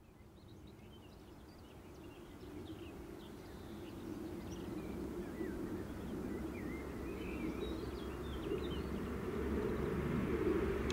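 An approaching electric train, a DB locomotive hauling double-deck regional coaches, its running noise growing steadily louder, while small birds chirp.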